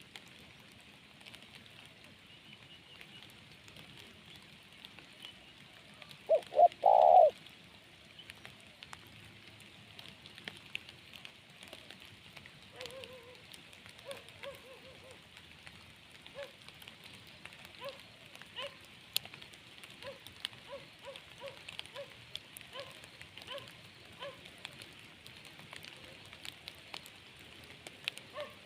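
A spotted dove gives one coo about six seconds in: two short notes and a longer one. Rain patters steadily with small drips throughout, and faint short bird notes repeat through the second half.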